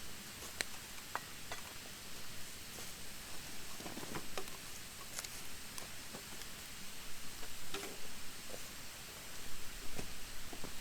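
Campfire of damp, freshly cut thin branches burning: a steady hiss with scattered sharp crackles and small pops.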